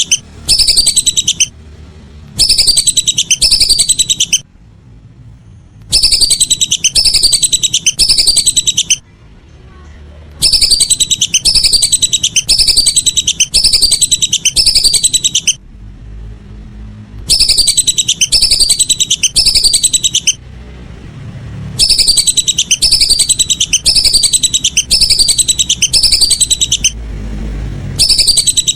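Lesser whistling duck (belibis) calls: loud, high whistles, each call a quick run of falling notes lasting about a second, coming in bouts of two to five with short pauses between, over a faint low hum. The calls play as a bird-calling lure.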